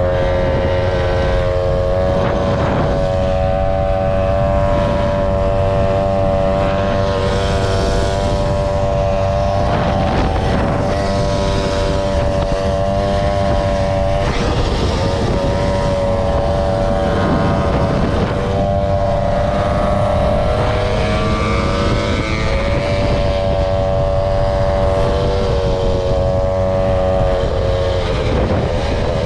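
Motor scooter engine running steadily under way, its note holding level with a few brief dips as the throttle eases off and comes back on, over a low steady rumble.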